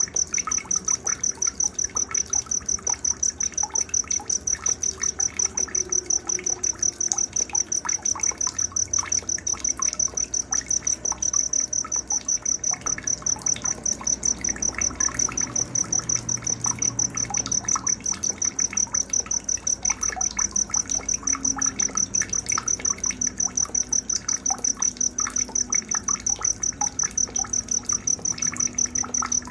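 Recorded night nature sounds for bird training: a high-pitched insect chirp pulsing evenly, about four times a second, over scattered fainter bird chirps and a low trickle of water.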